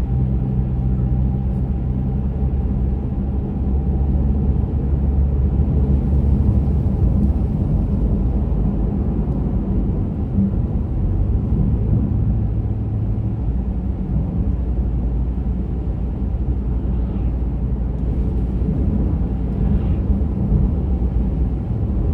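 Steady engine and tyre rumble of a car driving along a highway, with a low hum that shifts in pitch a few seconds in and again around the middle.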